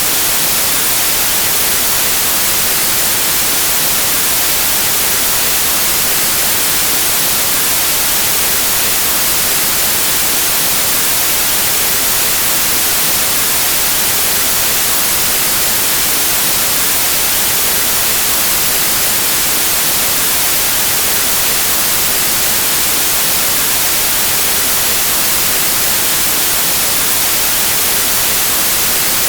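Steady white noise: an even, unchanging hiss, strongest in the treble, with no events or changes.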